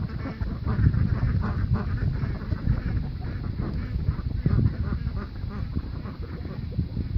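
A flock of domestic ducks quacking and calling over one another in many short, overlapping calls, over a continuous low rumble.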